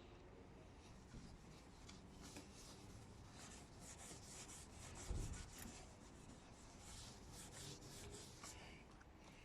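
Microfiber cloth rubbing polish onto a plastic headlight lens in repeated faint strokes, with one low thump about five seconds in.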